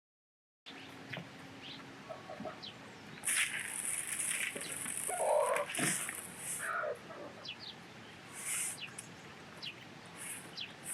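Farmyard birds: short chirps and fowl clucking, with a few bursts of high-pitched buzzing, starting about a second in after a moment of dead silence.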